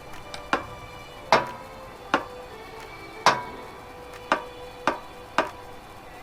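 A series of sharp taps at uneven intervals, about ten in all, each leaving a brief ringing tone.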